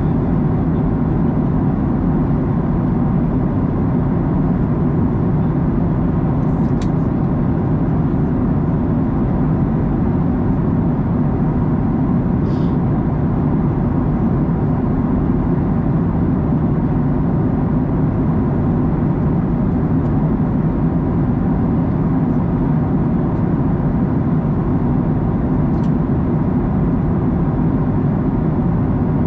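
Steady cabin roar of a Boeing 737-900ER in cruise, its engines and airflow making an even, deep rush that holds at one level. Three faint ticks sound through it.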